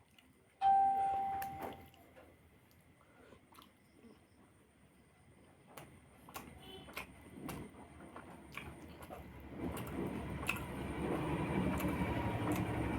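Eating noises at a meal. About half a second in, a dish or utensil is knocked and rings briefly; then come scattered clicks of cutlery and food being handled, and in the last few seconds steady, close chewing and eating sounds.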